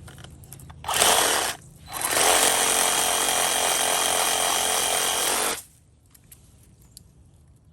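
Black+Decker 20V MAX cordless reciprocating saw running: a short burst of under a second, then a steady run of about three and a half seconds that cuts off abruptly.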